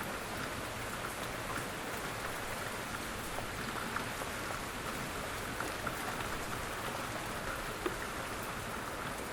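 Steady, gentle rain falling, an even hiss with scattered individual drops ticking on a hard surface.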